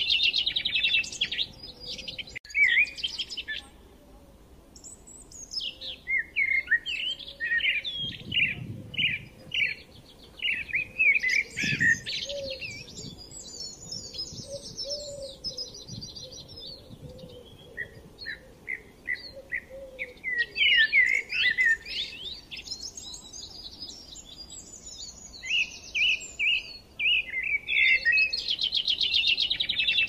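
Several songbirds singing in overlapping chirps, warbles and rapid trills, with a short lull about four seconds in.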